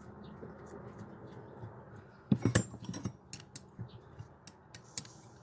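Small metal parts of a knockout tool clicking and clinking as they are handled and fitted back together, with a quick cluster of sharp clicks about two and a half seconds in, then scattered light ticks.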